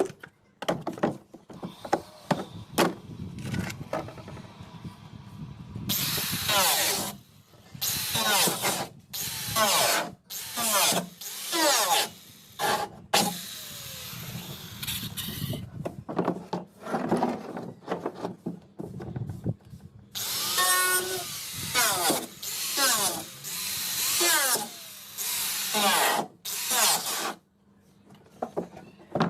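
A handheld power tool working on a fiberglass pillar, switched on in many short bursts of half a second to two seconds, its pitch rising and falling as the motor speeds up and slows.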